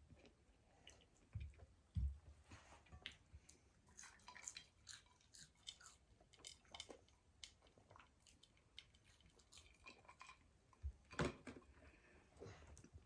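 A person chewing food close to the microphone: scattered wet mouth clicks and smacks, with a few louder low knocks, the loudest about two seconds in and again near the end.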